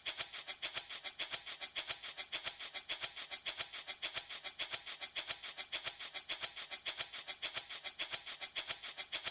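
Handmade baby rattle shaken in a fast, even rhythm, its beads or pellets giving a bright, hissy rattle with each stroke.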